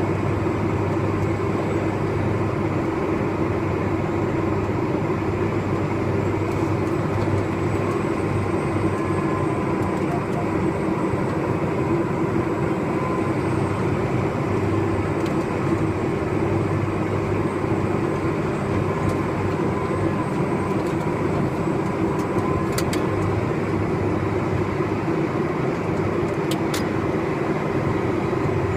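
Tractor engine running at a steady speed, a constant low drone with a faint whine above it.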